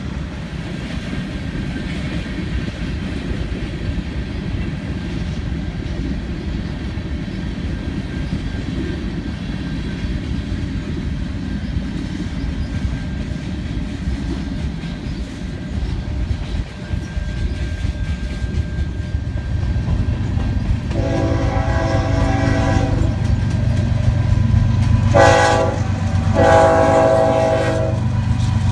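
Freight cars rolling past with a steady rumble of wheels on rail and clickety-clack of the joints. In the last third a diesel locomotive's multi-note air horn sounds a long blast, a short one and a long one, the end of a grade-crossing horn signal. Under the horn the rumble of an approaching locomotive's engine grows louder.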